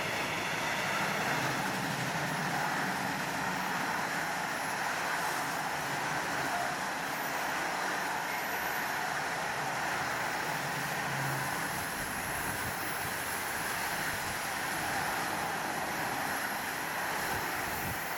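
A RoLa rolling-highway freight train passing close by: its low-floor wagons loaded with lorries roll past with a steady noise of wheels on rails.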